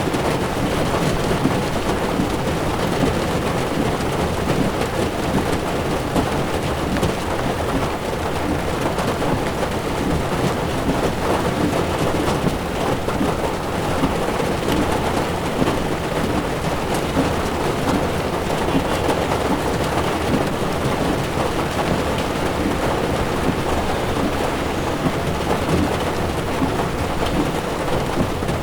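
Heavy rain pattering on a car's windshield, with the low rumble of tyres on a wet road underneath; a steady, unbroken downpour.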